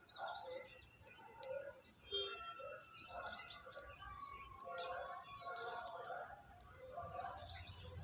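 Birds chirping and calling, several short calls overlapping throughout, with a few sharp ticks.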